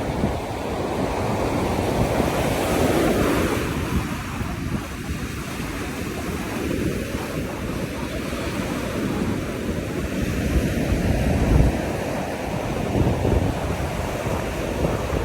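Ocean surf breaking and washing onto a beach, a continuous rushing that swells and eases, with wind buffeting the microphone.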